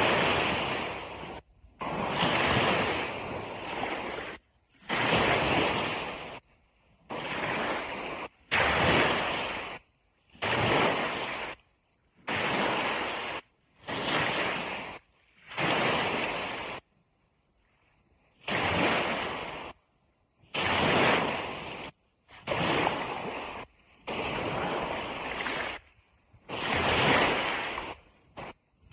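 Ocean surf washing on a beach, a noisy hiss that comes in stretches of one to two seconds and cuts in and out abruptly, with a longer break in the middle.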